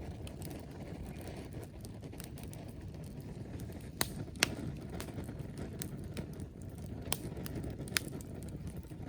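Wood fire burning with a steady low rustle and four sharp crackling pops, the loudest about four and a half seconds in.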